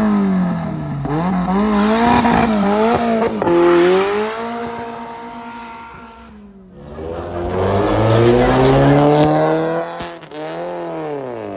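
Performance car engines revving hard and accelerating away, with quick throttle blips. The pitch dips about six seconds in, then makes a long climb and falls away near the end.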